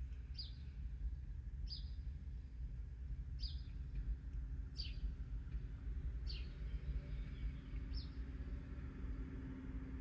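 A bird repeating a short, high chirp that drops in pitch, six times at about one-and-a-half-second intervals, over a low steady hum.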